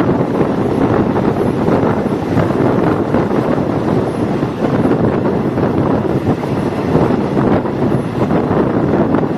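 Wind buffeting the microphone over the steady running noise of a moving diesel railcar.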